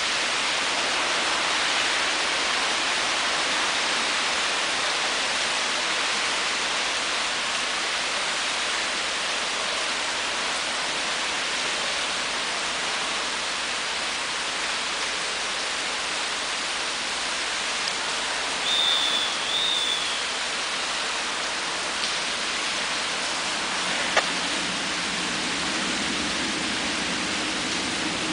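Steady rain falling, an even hiss. About two-thirds of the way through there is a brief two-note high chirp, and a low hum comes up near the end.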